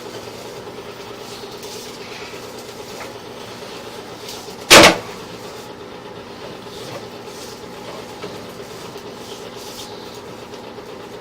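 Steady rumbling rattle with a faint hum from a sewer inspection camera's push cable running through the drain line. One sharp, loud knock a little under halfway through.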